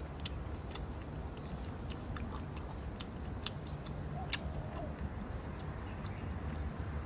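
Faint high chirps of small birds, in short repeated groups, over a steady low rumble, with scattered sharp clicks throughout.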